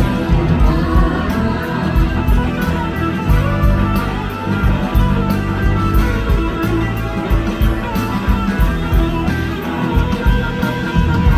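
Live blues-rock band playing, electric guitar to the fore over bass and drums, with cymbal strokes keeping a steady beat.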